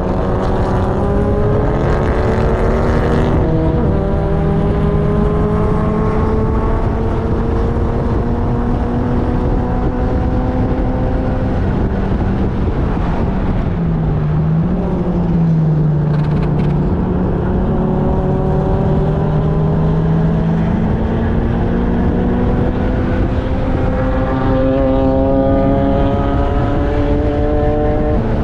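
A car's engine heard onboard while lapping a race track, pulling through the gears: its pitch climbs in long rises, breaks about three seconds in, drops and holds low around the middle, then climbs again, over steady wind and road noise.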